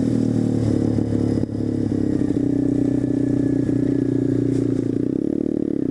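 Single-cylinder pitbike engine running steadily under way, with a brief dip in loudness about one and a half seconds in.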